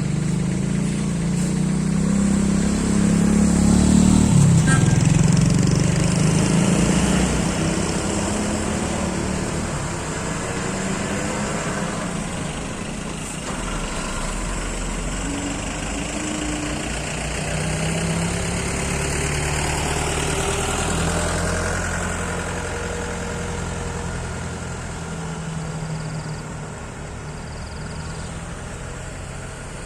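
Heavy diesel engines of a KSRTC bus and a fully loaded truck running close by, loudest a few seconds in and then steady.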